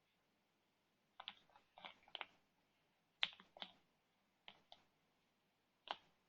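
Short clusters of sharp clicks and crackles from a chocolate bar's wrapper being handled while a piece is worked out of the broken-up bar. There are about four groups of clicks, the loudest a little past three seconds in, with near silence between them.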